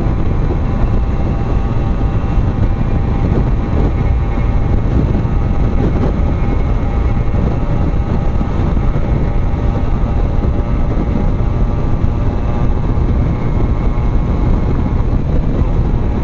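98 cc two-stroke motorcycle engine held at full throttle at high, steady revs, with wind rushing over the microphone at speed.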